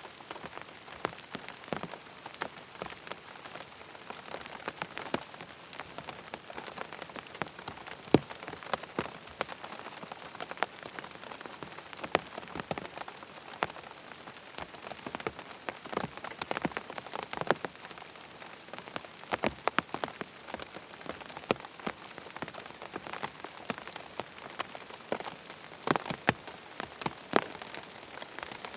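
Steady rain, with many separate drops ticking sharply and irregularly on a hard surface.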